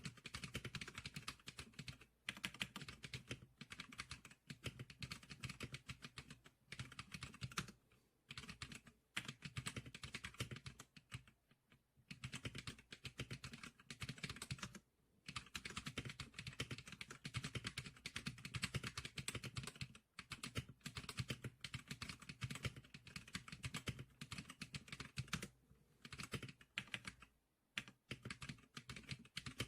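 Continuous fast typing on a Zclicker SPK100 keyboard: a dense run of key clicks, broken by a few short pauses.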